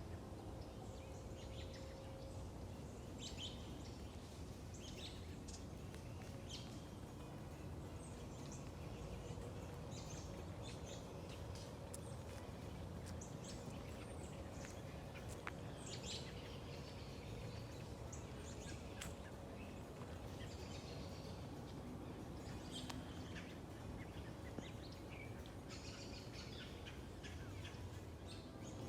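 Birds chirping: many short, high calls scattered throughout, over a faint steady low rumble.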